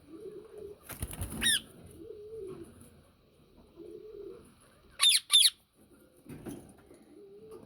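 Yellow Indian ringneck parakeet giving shrill calls: one about a second and a half in, then two loud, sharp screeches in quick succession about five seconds in. A low warbling call repeats every couple of seconds underneath.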